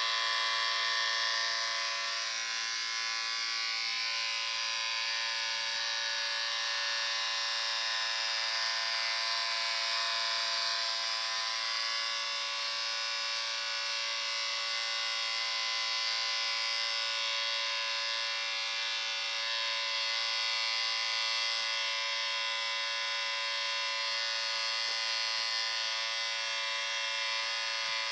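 Electric shaver running continuously: a steady, high-pitched buzz that holds unchanged throughout.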